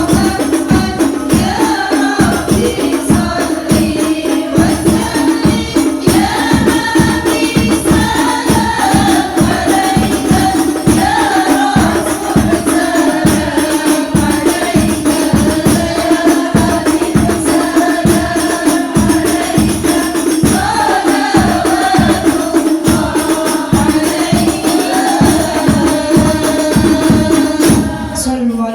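Group singing of Islamic sholawat over a fast, steady beat of frame drums and jingling tambourine. The music stops suddenly near the end.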